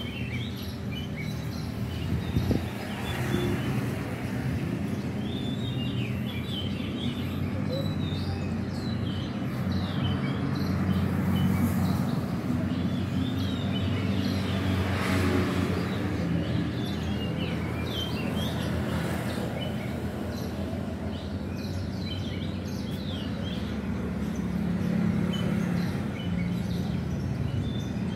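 Small birds chirping in short scattered calls over a steady low hum.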